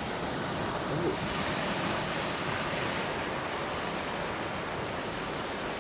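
Ocean surf washing on a beach, a steady, even rush of noise.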